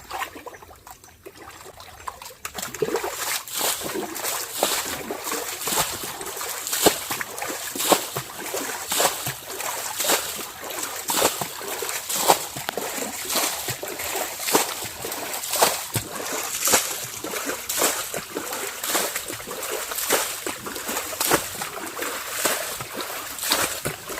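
Muddy spring water being stirred and churned up by hand, making repeated irregular splashes and sloshing about once or twice a second. The splashing starts about two seconds in.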